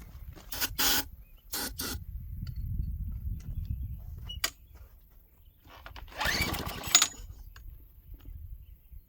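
Recoil starter of a Craftsman wheeled string trimmer's small engine pulled a few times; the engine cranks but does not fire, not even a pop on ether.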